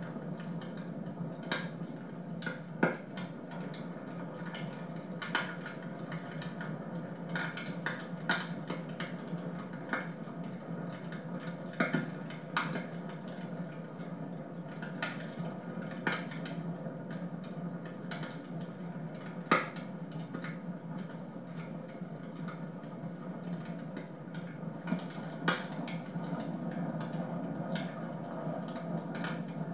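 Wood fire burning in a fireplace, crackling with irregular sharp pops and snaps over a steady low background.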